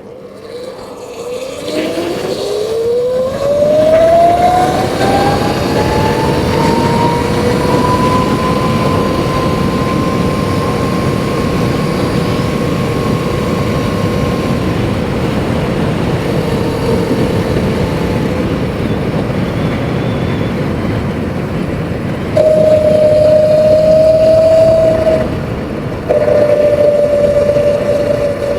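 Surron Light Bee electric dirt bike's motor whining, rising in pitch as the bike accelerates over the first several seconds and then holding steady at speed, with a rush of wind and road noise under it. Near the end a louder steady whine comes in twice, breaking off briefly between.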